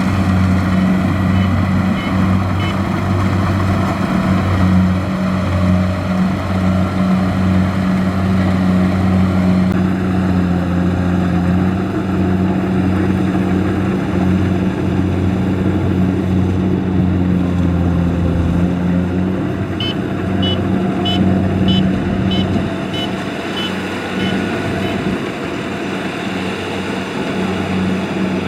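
Kubota DC-70 combine harvester running steadily in the field, its engine a low, even drone that holds the same pitch throughout.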